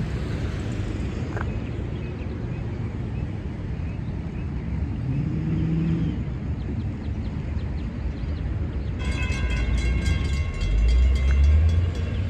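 A train running past, a steady low rumble that grows heavier near the end. About nine seconds in, a high, pulsing ringing sound joins it.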